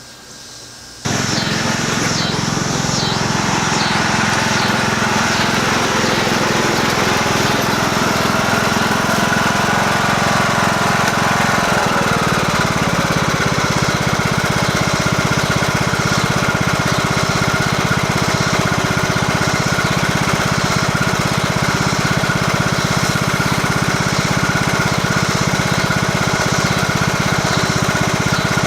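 Lawn mower engine running steadily while mowing grass. It comes in suddenly about a second in, and its pitch dips and settles about twelve seconds in.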